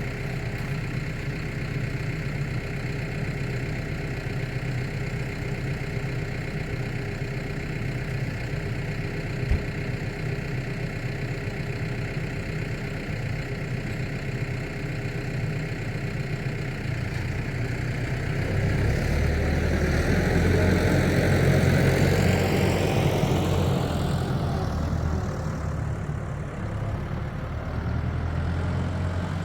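Tractor engine running steadily, growing louder a little past halfway through with a sweep up and down in pitch, then easing back.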